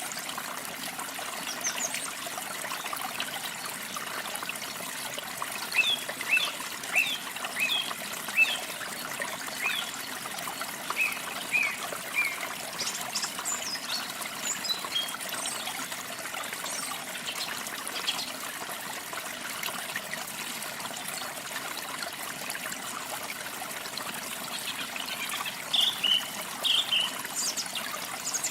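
Steady trickle of running water with small birds chirping over it, the chirps coming in short runs, most of them in the first half and again near the end.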